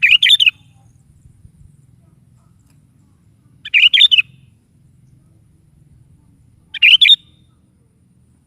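Sooty-headed bulbul (kutilang) singing: three short, loud, bubbly phrases of about half a second each, roughly three seconds apart.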